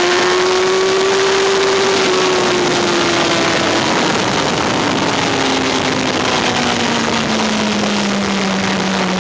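Yamaha R1's inline-four engine heard onboard under heavy wind rush. Its pitch rises slightly, then falls as the revs come down, with a drop about five seconds in and a slow slide lower toward the end.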